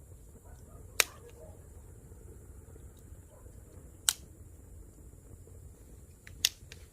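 Campfire firewood crackling: three sharp pops, about a second in, around four seconds in and near the end, over a low steady rumble.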